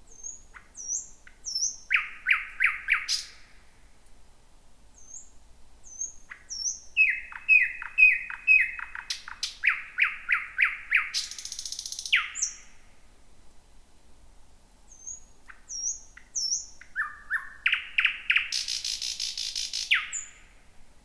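Thrush nightingale singing: three phrases, each opening with thin high whistles and running into fast series of loud repeated notes. The second and third phrases end in a harsh rattle, about halfway through and near the end.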